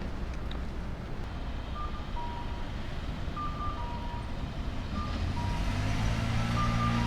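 Electronic two-tone beeping, a higher then a lower note repeating about every second and a half, over a low background hum. A deeper hum from a train's drive builds up over the last second or two.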